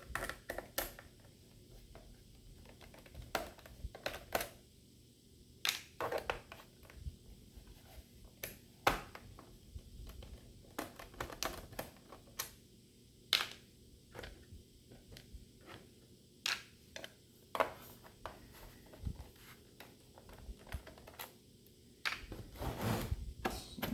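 Scattered clicks and light knocks of a screwdriver and small screws against the plastic bottom case of an HP 255 G4 laptop as its back screws are taken out, with busier handling near the end.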